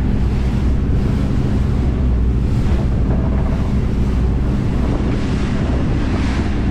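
Fishing boat running underway: a steady low engine hum, with water rushing past the hull and wind blowing on the microphone.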